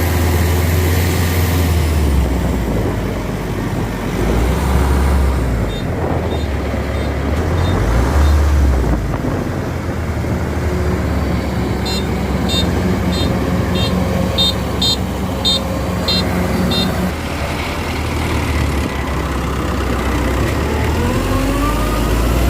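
Kubota DC-93 combine harvester's diesel engine running steadily under load. A quick series of short high-pitched beeps sounds for several seconds in the middle, and the engine pitch rises near the end.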